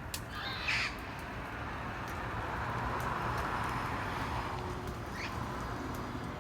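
Parrots squawking: one loud, harsh call under a second in and a fainter one about five seconds in, over a steady background rush that swells in the middle.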